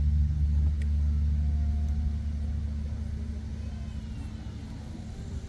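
Deep, low resonance of large percussion fading away slowly, its level dropping steadily over several seconds.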